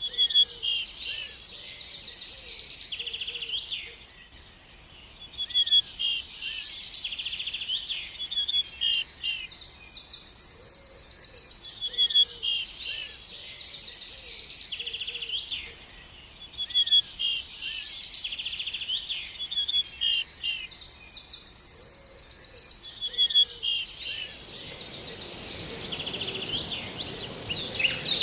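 A bird singing rapid trills and sharp chirps, the same song sequence repeating about every twelve seconds with brief pauses between. Near the end a steady high hiss comes in under the song.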